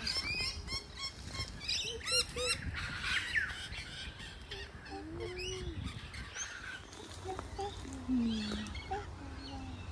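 Wild birds calling in open eucalyptus bush: a quick run of short, high chirps in the first few seconds, then scattered squawks and calls.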